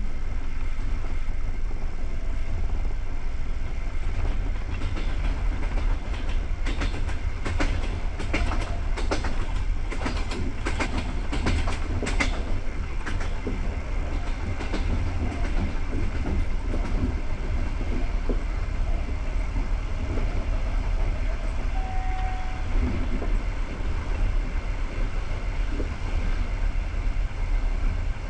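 Passenger train coach riding on the rails: a steady low rumble, with a run of sharp clacks from the wheels on the track for several seconds partway through.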